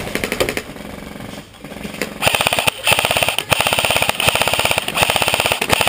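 Airsoft electric rifles firing full-auto: a fainter rapid rattle of shots at first, then, from about two seconds in, several loud long bursts of fast, evenly spaced shots with short breaks between them.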